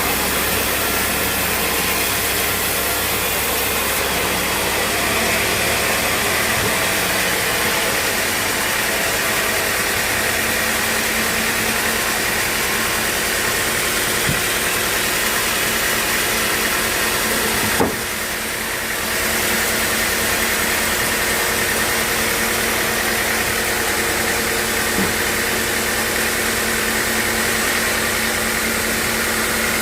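Sawmill machinery running steadily: a constant mechanical drone and hiss with faint steady tones. A single sharp click comes about 18 seconds in, and the noise dips briefly after it.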